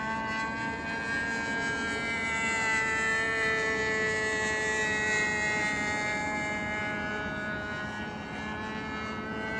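Distant RC airplane's Super Tiger two-stroke glow engine running in flight, a steady buzzing whine. It grows a little louder a few seconds in, then its pitch sags slightly and climbs again near the end.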